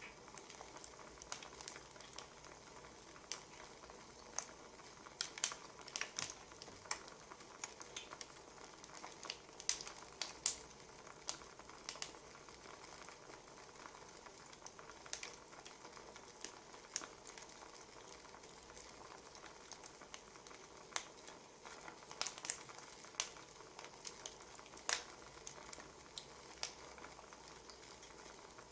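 Wood fire crackling: a soft steady hiss with irregular sharp pops and snaps scattered throughout.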